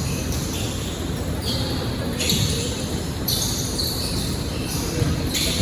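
Basketball being dribbled on an indoor court during a game, over the echoing background noise of the gym.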